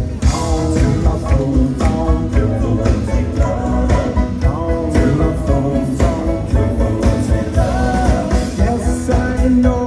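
Rock and roll band playing live with a lead singer: drums keep a steady beat under guitar and vocals.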